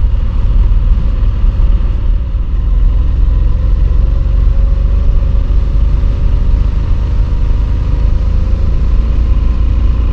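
Motorcycle engine running while riding, under a strong steady low rumble, with its pitch rising slowly through the middle as the bike gathers a little speed.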